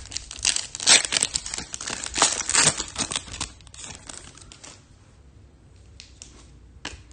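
Foil wrapper of a trading-card pack crinkling and tearing as it is ripped open, a dense run of crackles that stops about two thirds of the way in, followed by a few faint rustles.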